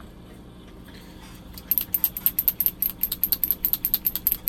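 Model paint being shaken in its bottle, a rapid clicking rattle of about ten clicks a second that starts a little under two seconds in.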